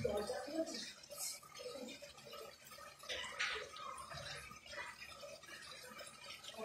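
Long beans, papaya and chicken frying in oil in a pan, giving irregular soft pops and crackles.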